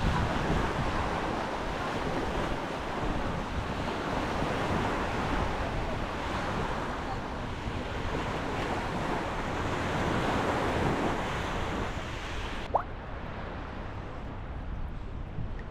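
Sea waves washing onto a beach in slow swells, with wind buffeting the microphone. About three-quarters of the way through, the sound cuts abruptly to a quieter, duller background, with one brief rising chirp.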